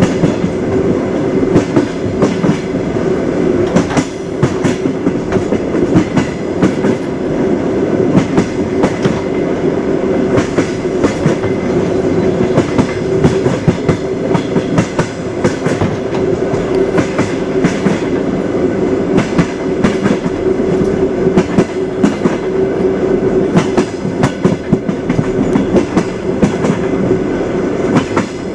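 Railway carriage wheels knocking over the rails: a steady rumble with a constant hum and frequent irregular clicks and clacks.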